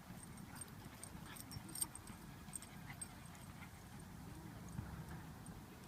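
Faint dog sounds at a distance: scattered light clicks and jingles, with a short faint whine about four seconds in.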